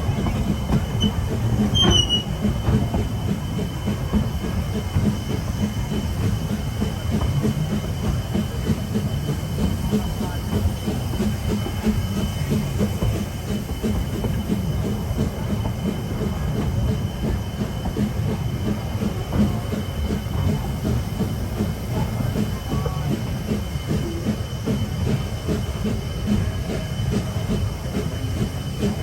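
Two-foot-gauge train rolling along the track: a steady rumble of wheels with rapid rail clatter. A brief high wheel squeal comes about two seconds in.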